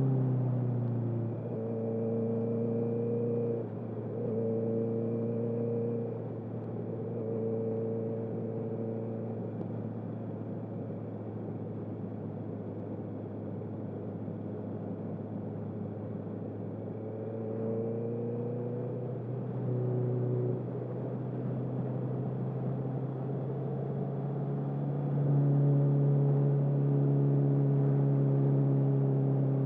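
Honda CB650R inline-four engine through a full Akrapovic exhaust with no dB killer, heard while riding. The revs fall in the first second, then the engine holds moderate, slightly varying revs, goes quieter for a stretch in the middle, and pulls harder and louder about 25 seconds in.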